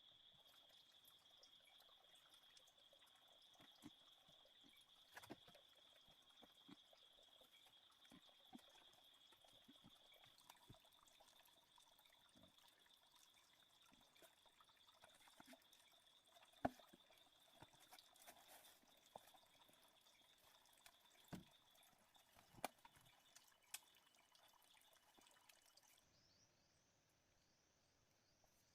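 Near silence: scattered faint clicks and taps over a faint, steady high-pitched whine that fades out about three quarters of the way through.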